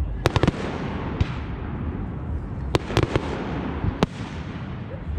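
Fireworks display: aerial shells bursting with sharp bangs in quick clusters, several in rapid succession near the start and again a little before the middle, over a continuous low rumble of the ongoing display.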